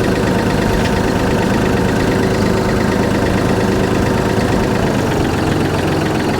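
Tractor engine running steadily at idle, the machine that drives the backhoe.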